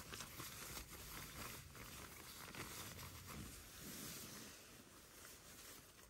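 Faint rustling and crinkling of jacket fabric as a jacket is pulled on and adjusted, with small scratchy clicks.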